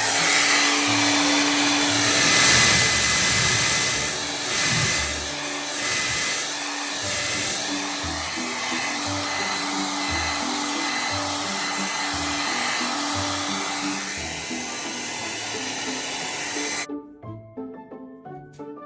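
Hand-held hair dryer blowing steadily, switched off abruptly about 17 seconds in. It is drying wet watercolour paint.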